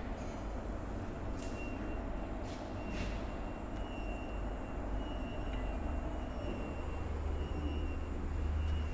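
Machinery running on a disc brake caliper production line: a steady low hum with a thin, high, steady whine that starts about a second and a half in, and a few short clicks in the first three seconds.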